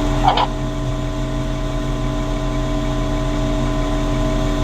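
A 200-ton lattice boom crane's engine running steadily, with a constant low hum and several steady whining tones over it. A brief higher-pitched sound cuts in once just after the start.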